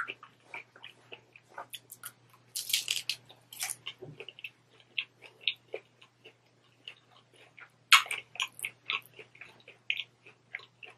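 Close-up chewing of a crisp taco shell: irregular crunching and crackling, with heavier bursts of crunches a few seconds in and again near the end. A faint steady low hum runs underneath.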